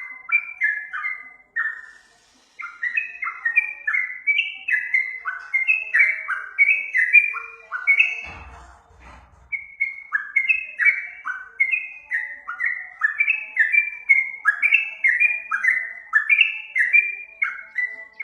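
Yellow-vented bulbul (trucuk) song played as a masteran recording: a fast run of short, clear whistled notes, many sliding downward, about two a second. The song breaks off briefly near the start and again in the middle, where a faint low rumble is heard.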